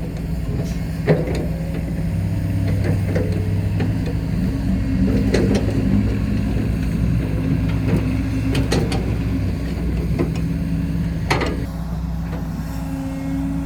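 Diesel dump truck engine running under load, its pitch rising about four seconds in, with scattered clanks and knocks.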